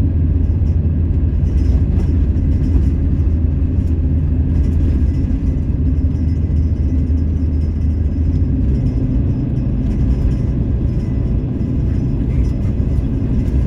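Van running while driving: a steady low engine and road drone, its pitch shifting slightly about eight seconds in.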